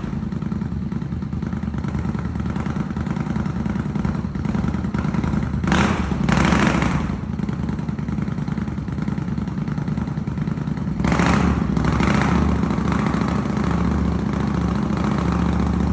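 Custom Indian Scout's V-twin engine running loud at idle, revved up twice, about six seconds in and again about eleven seconds in.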